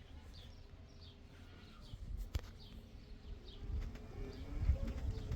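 A small bird chirping over and over, short high notes coming about once or twice a second, over a low rumble. A single sharp click about two and a half seconds in.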